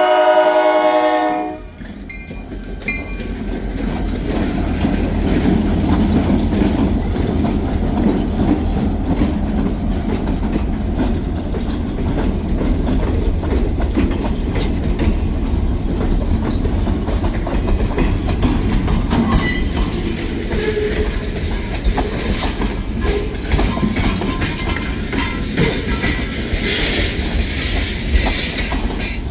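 A diesel locomotive's air horn blows and cuts off about a second and a half in. A freight train then rolls past with a steady rumble, its wheels clicking over the rail joints.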